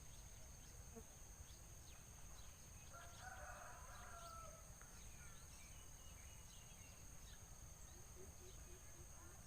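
A rooster crows once in the distance, faintly, starting about three seconds in. Scattered faint bird chirps sound around it.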